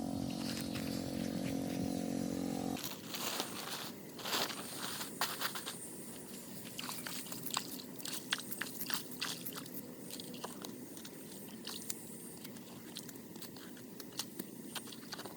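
A steady motor hum that cuts off about three seconds in, followed by irregular clicks and crackles.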